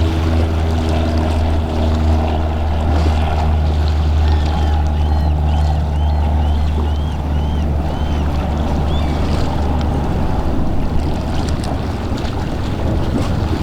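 Boat engines running with a steady low drone, under a wash of water and wind noise. Around the middle comes a run of about six short high chirps.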